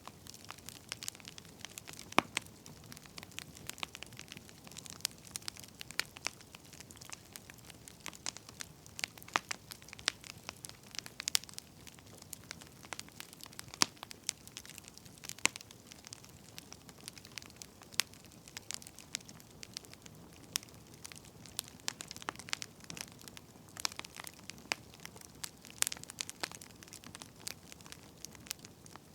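Wood fire crackling, with frequent irregular sharp pops and snaps over a soft steady hiss.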